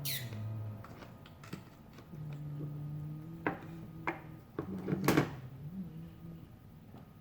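Scattered sharp clicks and knocks of the opened Teddy Ruxpin toy's plastic parts and wiring being handled, the loudest about five seconds in, over a low held tone that shifts pitch now and then.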